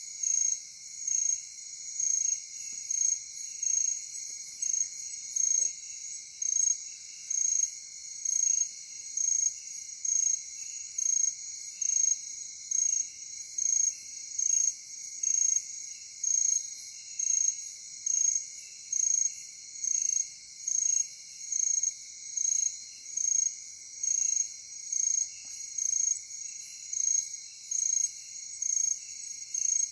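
Night insect chorus of crickets: a loud, high chirp repeating steadily about once a second over a continuous high trill and lower, irregular chirping.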